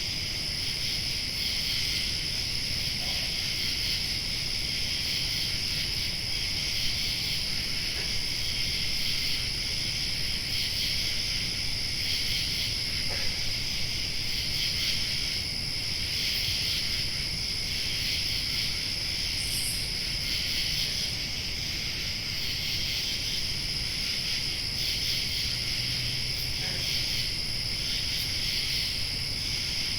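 Summer night insect chorus: crickets trilling in a dense, unbroken layer, with a thin, higher-pitched steady insect whine above it and a low rumble underneath.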